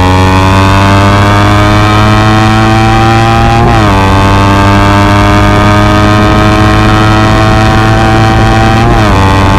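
Honda CBR250RR motorcycle engine pulling under acceleration, its pitch climbing slowly through a gear. It drops at an upshift about four seconds in, then climbs again to another upshift near the end.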